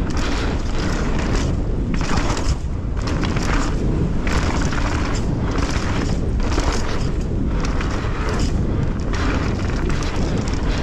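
Mountain bike riding down a dirt trail, heard from a bike- or rider-mounted action camera: a steady rumble of wind and rolling on the microphone, with tyre and trail hiss swelling and fading about once a second.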